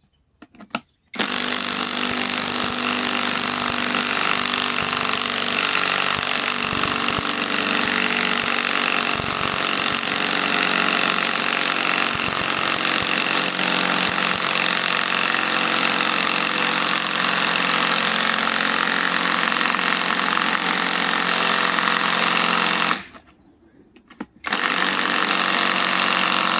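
Bauer cordless compact impact wrench hammering continuously, starting about a second in; it stops for about a second and a half near the end, then starts hammering again.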